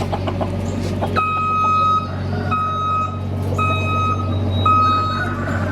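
An electronic beeper sounding four steady, evenly pitched beeps about a second apart, the first a little longer than the rest, over a constant low hum.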